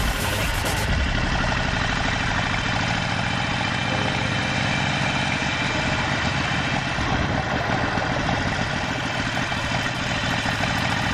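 Harley-Davidson Sportster 48's air-cooled V-twin engine running steadily.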